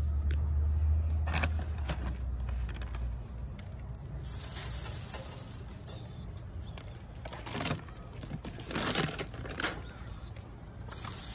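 Pigeons' wings flapping in several short flurries, the loudest in the second half, as birds take off and land around the loft. A low rumble runs through the first three seconds.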